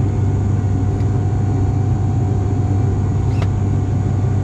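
Steady low drone of the ATR 42-500's turboprop engines and propellers heard inside the passenger cabin in flight, with a steady mid-pitched tone running through it. A single light click about three and a half seconds in.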